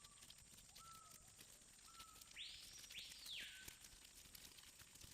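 Faint rainforest ambience with a few short, high whistled calls, then two quick calls that sweep up and back down about halfway through.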